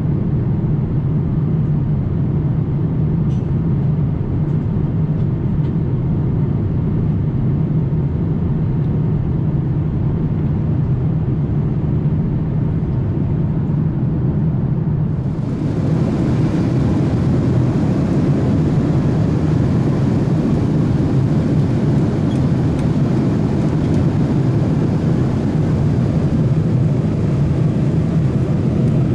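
Steady cabin noise of a Boeing 787-8 Dreamliner in flight: a deep drone of airflow and its General Electric engines. About halfway through it turns brighter, with more hiss.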